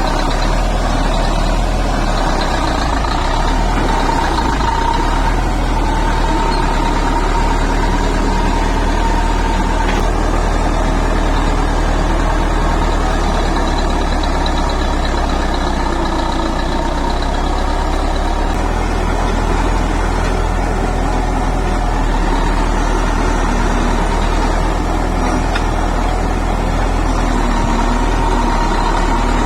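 Heavy construction machine's diesel engine running steadily under load, a low rumble with a steady whine above it.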